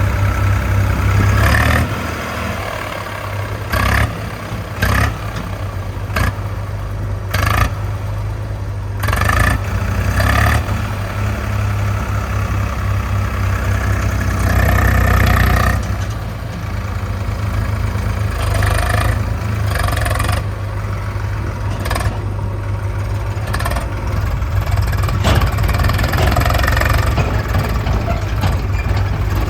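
Heavy diesel machinery running steadily at low speed, with a series of short knocks and clanks, close together in the first half and more scattered later.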